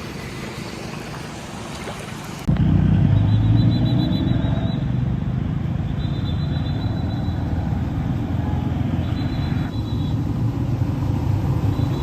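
A steady hiss that cuts off abruptly about two and a half seconds in, giving way to a louder, steady low rumble of vehicle traffic.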